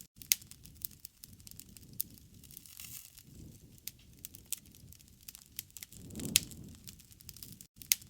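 Campfire crackling, with irregular sharp pops of burning wood over a low rush of flame that swells about six seconds in, where one of the loudest pops falls.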